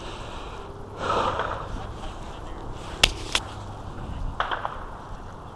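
Two sharp cracks about a third of a second apart, the first the loudest, then a fainter one a second later, over steady outdoor background noise.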